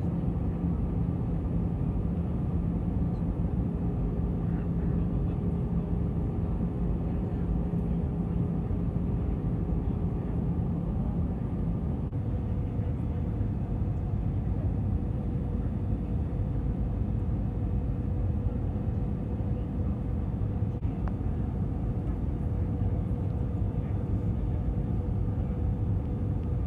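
Airbus A320 engines and airflow heard from inside the passenger cabin as a steady roar, with a hum whose pitch shifts about halfway through.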